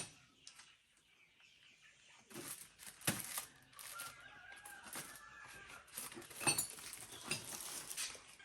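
Scattered sharp knocks and clicks, with a brief animal call in the middle that sounds like chicken clucking.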